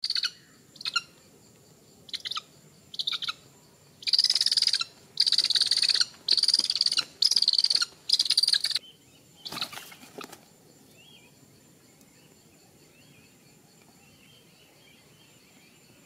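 Raptor chick calling from its nest: a few short calls, then five long calls in quick succession and one more about a second later. A steady high insect drone runs underneath.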